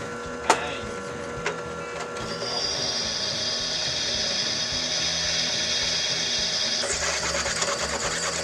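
Electric drill running and boring a hole through quarter-inch steel angle: a steady motor whine, with a sharp click about half a second in. From about two seconds in, the high, hissing sound of the bit cutting the steel grows louder and continues until it changes near the end.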